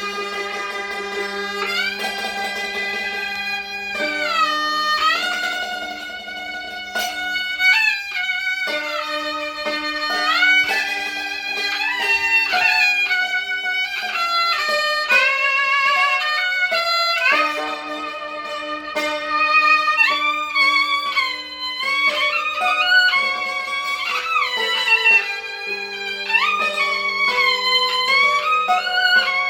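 Gaohu (high-pitched Chinese two-string fiddle) playing a melody with slides between notes and vibrato, accompanied by yangqin (hammered dulcimer) holding lower notes.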